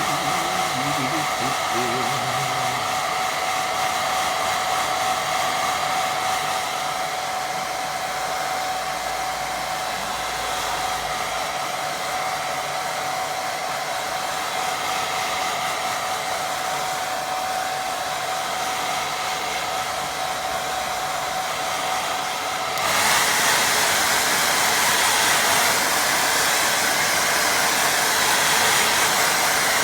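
Hair dryer blowing steadily with a thin whine, drying wet watercolour paint. About three quarters of the way through it gets louder and hissier and the whine drops out.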